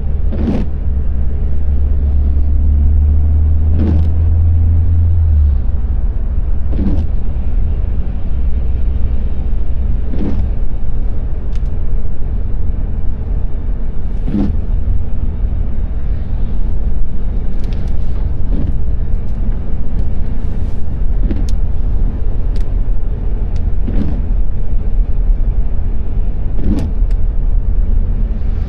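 Steady road and engine rumble inside a moving car in the rain, with a short swish about every three to four seconds from the windshield wipers sweeping.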